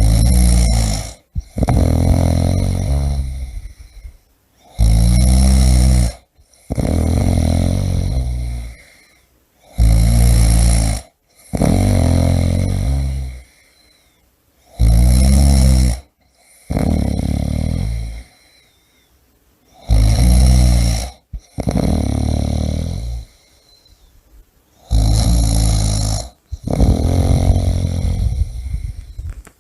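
A person snoring steadily. Each breath brings a short, loud snore followed by a longer, softer one, about one breath cycle every five seconds.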